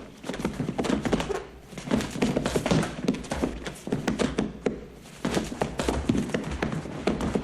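Rapid, irregular knocking and tapping, several knocks a second.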